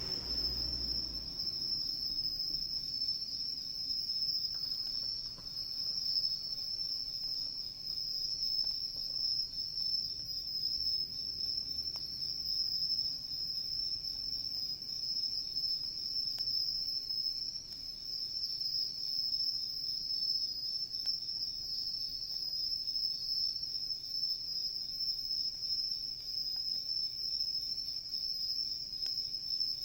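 Singing insects, likely crickets, trilling in one steady, unbroken high-pitched chorus, with a few faint pops from a wood campfire.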